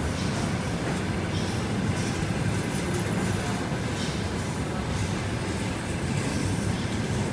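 Departing passenger train rolling past at low speed: a steady rumble of coach wheels on the rails, with a few faint clicks from the wheels over rail joints.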